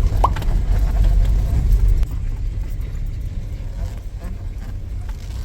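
Low, steady rumble of a car being driven, heard from inside the cabin, heaviest in the first two seconds and then easing.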